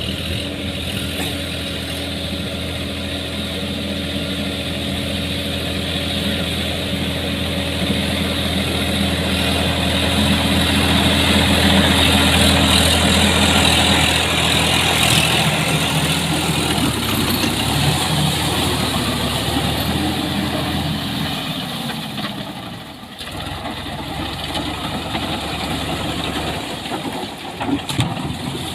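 Sonalika tractor's diesel engine running at a steady speed. About three-quarters of the way through, its note sags in pitch and the steady tone breaks up into a rougher sound.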